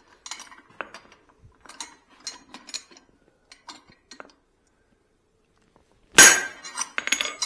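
Hand hammer working hot steel in a blacksmith's guillotine tool on the anvil. A series of light metallic clinks runs through the first few seconds, then a hard, ringing hammer blow comes about six seconds in, followed by a couple more strikes.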